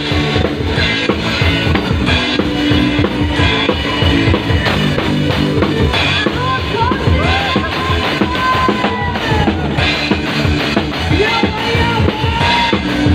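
A band playing, with a steady drum kit beat and bass; about six seconds in, a high lead line with sliding, bending notes comes in over it.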